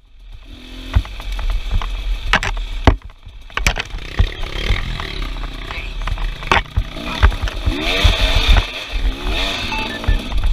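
Off-road motorcycle engines running and revving, the pitch rising and falling, with frequent knocks and clatter from rough ground.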